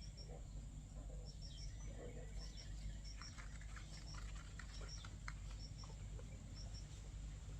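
Faint outdoor ambience: short, high chirps repeating mostly in pairs, with light clicks and rustles from about two and a half seconds in, over a low steady hum.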